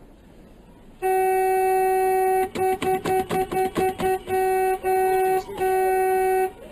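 A car horn sounding on one steady pitch. A long blast starts about a second in, then comes a rapid run of short toots, then several longer blasts.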